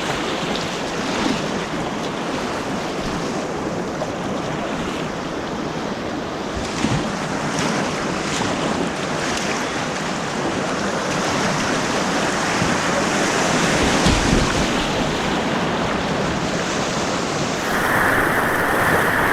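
Steady rushing of white-water rapids on an artificial course, heard close up from a kayak, with some wind noise on the microphone; the rush grows a little louder in the second half.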